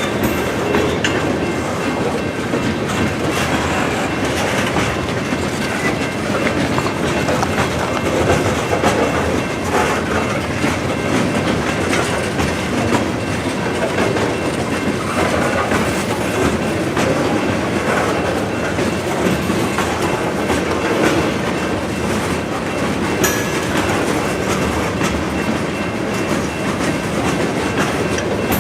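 Freight train cars rolling past at close range, with a steady clickety-clack of wheels over the rail joints.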